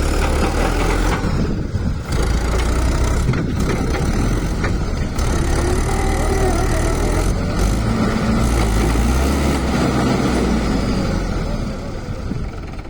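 Tractor engine running under heavy load as the tractor, stuck in a field, strains to pull free: a loud, steady low rumble that eases slightly near the end.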